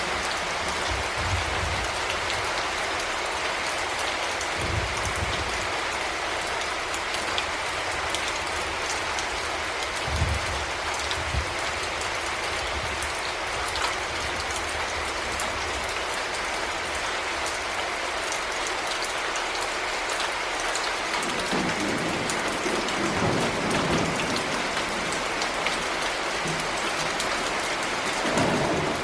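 Heavy rain falling steadily, with low rumbles of thunder swelling in the last third.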